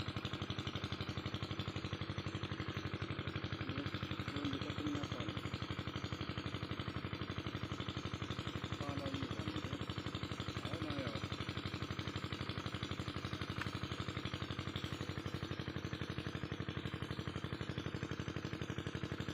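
Single-cylinder Kirloskar 8 hp diesel engine driving a farm water pump, running steadily at a constant speed with an even rapid pulse of firing strokes.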